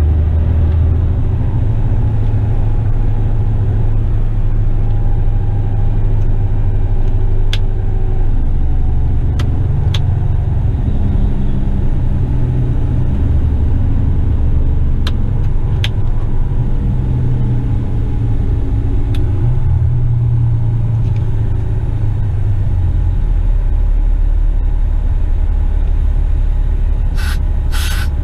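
Western Star tipper truck's diesel engine rumbling steadily on the road, its note rising and falling with the driving, with a few sharp clicks along the way and a few short hisses near the end.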